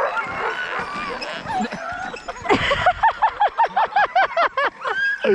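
Sled dogs barking and yelping excitedly, several dogs at once, with a fast run of high yelps, about four or five a second, in the second half.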